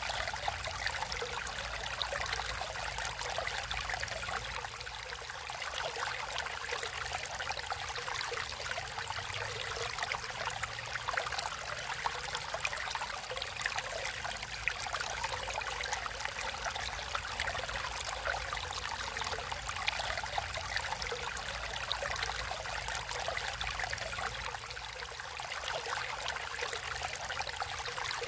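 Stream water flowing and trickling steadily, a continuous hiss flecked with many small splashes.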